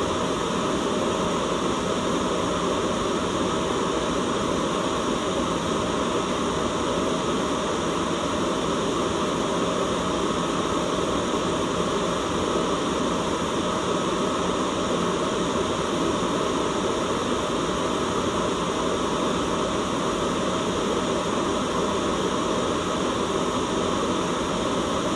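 Steady white noise, an even hiss with no changes.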